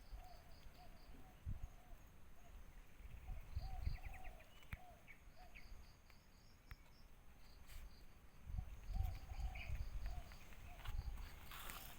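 Outdoor natural ambience: an insect chirping in an even train of several short high chirps a second, in spells, with faint short calls repeating lower down. Low rumbling surges come and go, loudest about four seconds in and between eight and eleven seconds.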